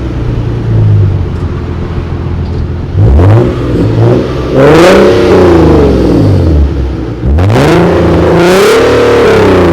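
A car engine revved: a short blip about a second in, then two long revs, each climbing, held briefly at the top and falling back toward idle.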